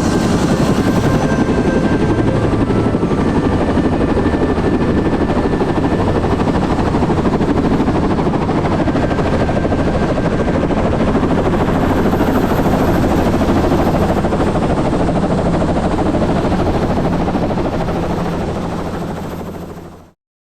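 Helicopter in flight: rotor and engine running steadily with a dense rapid beating under a steady hum. It fades a little and then cuts off near the end.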